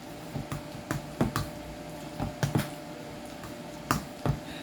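Utensil stirring mashed potatoes in a pot, with irregular soft taps and clicks as it knocks against the pot.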